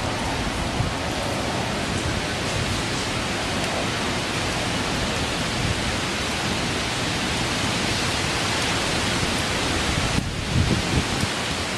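Steady heavy rain and wind of a tropical storm, a dense even hiss. About ten seconds in, gusts start buffeting the microphone with low, uneven rumbles.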